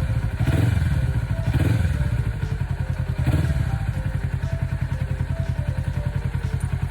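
Kawasaki Ninja 400R's parallel-twin engine running, with a few short swells in revs in the first few seconds, then settling to a steady idle. The bike is running after sitting unstarted for three months.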